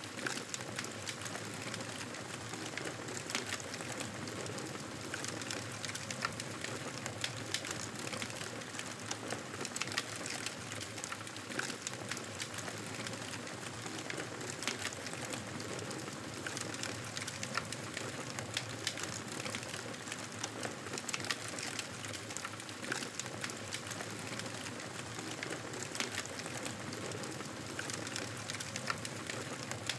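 Campfire crackling steadily, with many small sharp pops and snaps scattered over a continuous hiss of burning wood.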